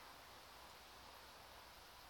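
Near silence: a faint, steady background hiss with no distinct events.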